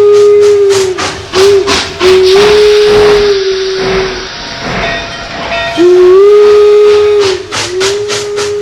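Cartoon steam-train sound effect: a steam whistle blowing in long toots that slide up at the start and down at the end, with a short blip between, over a rhythmic chuffing of about three beats a second. A burst of steam hiss comes in the middle.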